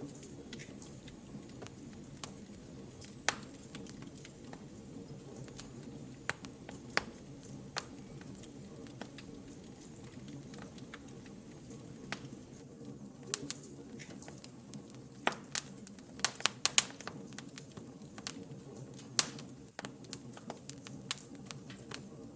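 Wood fire in a fireplace crackling: a steady low rustle from the flames with sharp pops and snaps scattered throughout, coming thickest in a run of rapid snaps about two-thirds of the way through.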